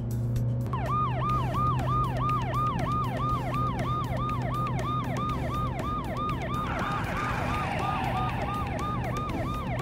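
Police car siren in fast yelp mode, starting just under a second in: a quick falling wail repeated about three times a second, over a steady low hum. A brief rushing noise joins around seven to eight seconds in.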